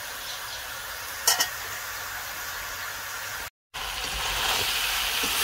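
Chopped jackfruit sizzling in hot oil in a steel karahi while it is stirred with a metal ladle, which clinks twice against the pan about a second in. The sizzle drops out for a moment just past halfway and comes back louder.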